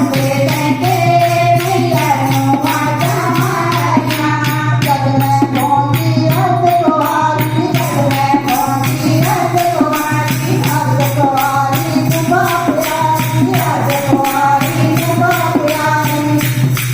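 Hindi devotional bhajan to the goddess Ambe sung in kirtan style, with a jingling tambourine-like percussion keeping a steady, even beat under the melody.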